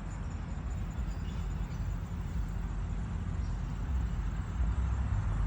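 Steady outdoor background noise: a low rumble with a faint, rapidly pulsing high-pitched chirp over it.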